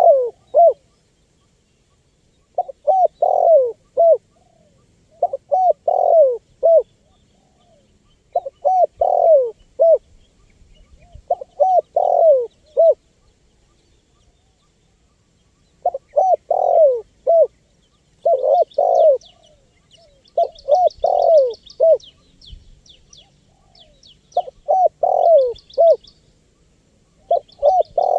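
Spotted dove (tekukur) cooing: phrase after phrase of several rounded coo notes, one phrase every two to three seconds, with a pause of about three seconds midway. Faint high chirping of small birds runs behind it, busiest in the second half.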